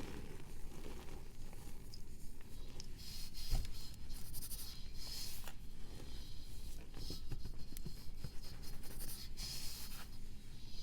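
A block of pressed powder being scraped: irregular scratchy strokes with small crackles and crumbles, the strongest patches a few seconds in and near the end.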